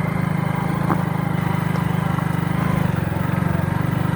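Hero Splendor single-cylinder four-stroke motorcycle engine running steadily in first gear while climbing a rough hill track, with an even, pulsing note.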